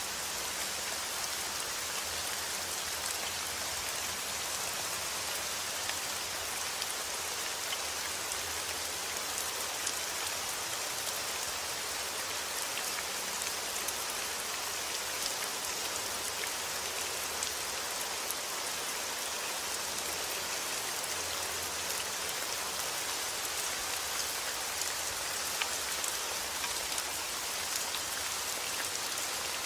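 Heavy rain falling steadily outdoors, a dense even hiss with scattered sharper drop impacts.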